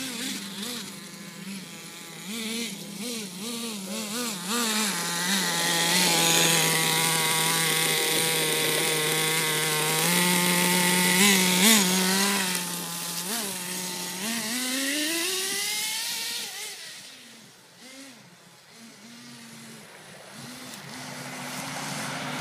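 Redcat Volcano RC truck's motor revving as it is driven, its pitch repeatedly rising and falling with the throttle. It is loudest in the middle, sweeps up in one long rise, then fades away about two-thirds through and builds again near the end.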